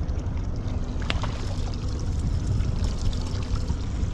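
Steady pouring and splashing of water on a fishing boat, over a deep rumble of wind on the microphone and a faint hum, with one sharp tick about a second in.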